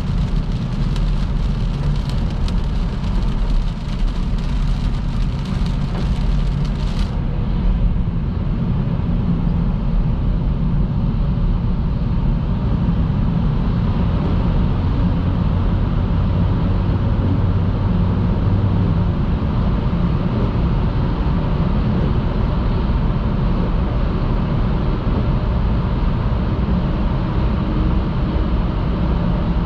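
Car driving at speed on a rain-soaked motorway: a steady, loud rush of tyre and wind noise, heaviest in the low end. For the first seven seconds a crackling high hiss of water spray rides on top, and it cuts off suddenly.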